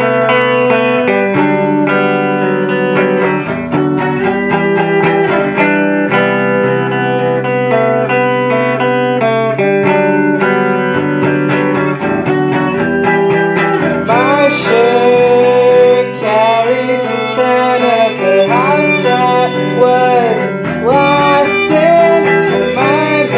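Live band music led by plucked guitar over a steady low bass line. About two-thirds of the way through, a higher melody with sliding notes comes in over it.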